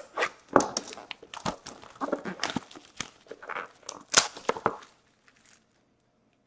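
Packaging of a sealed box of hockey cards being torn and crinkled open: a busy run of crackles and rustles that stops about five seconds in.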